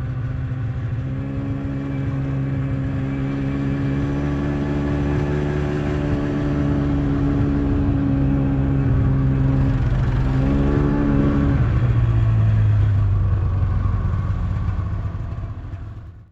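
Tractor engine running steadily, its pitch dipping and shifting about ten seconds in as the load changes, then settling lower before fading out near the end.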